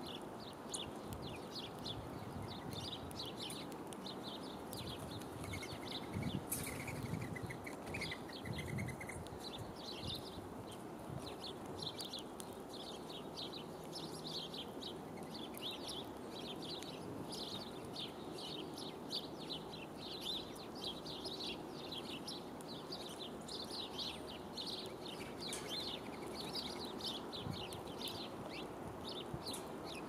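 Small birds chirping: many short, high chirps, several a second, over a steady low background noise.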